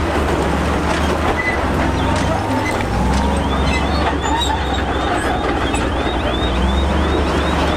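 Heavy diesel earthmoving machinery running steadily with a low engine drone and a rough clatter. About three seconds in, a repeating high squeak starts, about three times a second.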